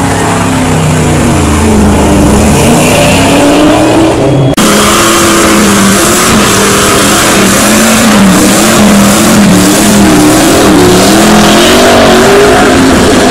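A car doing a burnout: its engine revs hard and wavers up and down over a loud hiss of spinning tyres, with a brief drop about four and a half seconds in.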